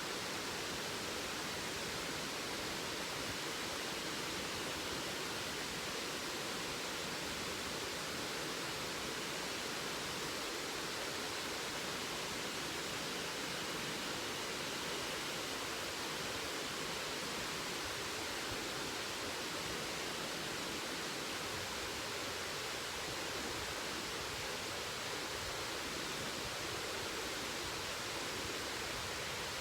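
Waterfall pouring steadily: an even rush of falling water with no breaks or changes.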